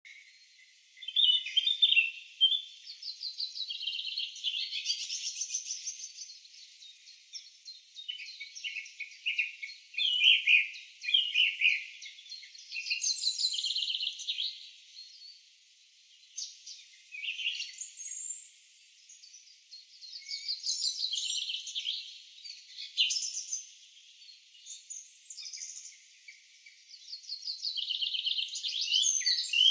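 Songbirds singing: varied high chirps and fast trills in phrases separated by brief pauses.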